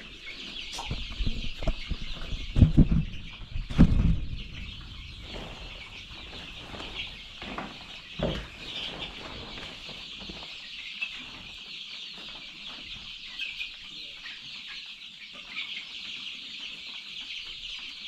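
A brood of chicks peeping continuously, many small high chirps overlapping. A few dull thumps stand out in the first four seconds and once more about eight seconds in.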